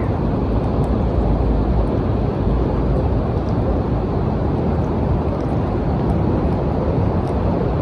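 Steady rain ambience, mostly a deep rumbling noise with faint scattered drop ticks over it.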